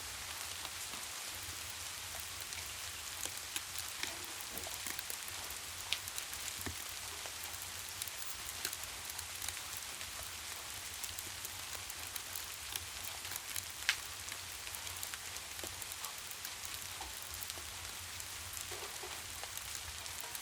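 Steady rain hissing, with scattered sharp ticks and pops throughout and one louder pop about two-thirds of the way through, over a steady low rumble.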